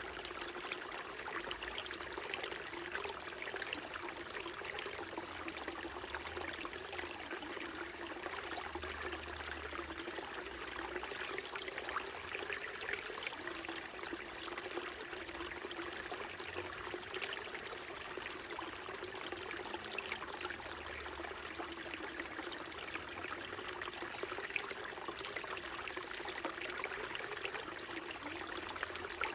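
Small mountain stream trickling and babbling over stones: a steady, even rush of water with many small splashes.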